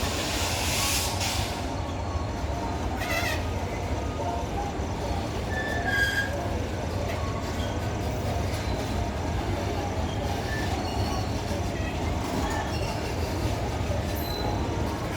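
Freight train rolling by with a steady low rumble of wheels on track, a burst of hiss in the first second or so, and brief high-pitched wheel squeals around three and six seconds in.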